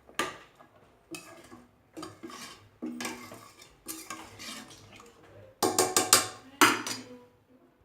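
A metal spoon scraping and clanking against a pressure cooker pot as field beans are stirred into the chicken curry, in a series of strokes about once a second. The strokes are louder and come quicker a little past the middle.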